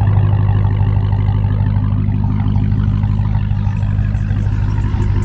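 Car engine running steadily, a loud, even low drone that holds the same pitch throughout.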